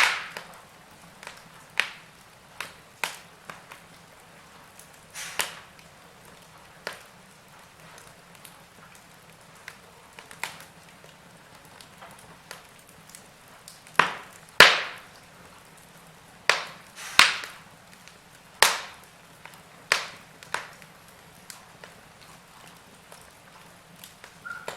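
Wood fire crackling: irregular sharp pops and snaps over a faint steady hiss, with a cluster of louder cracks about 14 to 19 seconds in.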